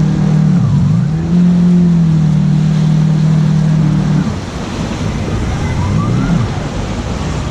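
Jet ski engine running at a steady low note, dipping briefly in pitch about a second in and then steadying again. About four seconds in the steady note stops and a quieter engine sound with wavering, gliding pitch carries on.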